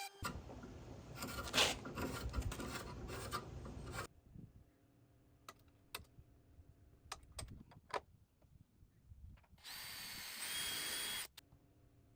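Woodworking on a pocket door frame: about four seconds of rubbing, scraping strokes on wood, then a few sharp clicks, then a power tool running for about a second and a half near the end.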